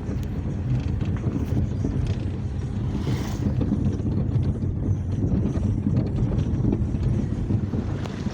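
Moving taxi heard from inside the car: a steady low engine and road rumble, with wind buffeting the microphone and a brief hiss about three seconds in.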